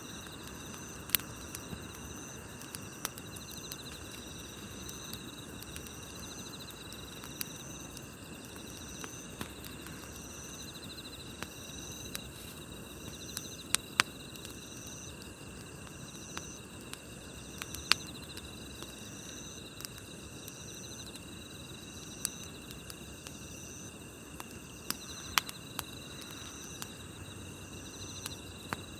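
Campfire crackling, with scattered sharp pops over a low steady hiss, while night grass insects call: a high chirp repeating about once a second over steady high trilling.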